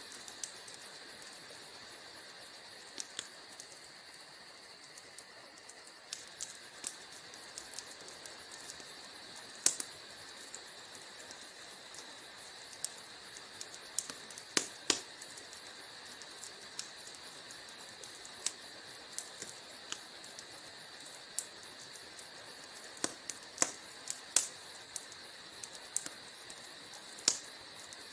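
Wood fire burning in a fireplace: a steady high hiss with irregular sharp crackles and pops, a few of them louder snaps.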